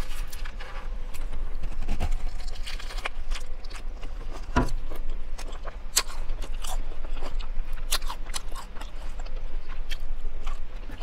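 Close-up chewing and biting into a teriyaki chicken lettuce wrap: irregular crisp crunches of lettuce and wet mouth clicks, picked up close by a clip-on microphone.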